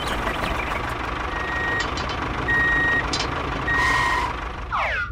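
Reversing alarm beeping three times, each beep about half a second long and a little over a second apart, over the steady running of a vehicle engine.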